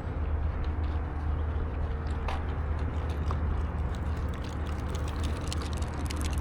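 Steady low rumble of road traffic, with scattered light footsteps on a trail.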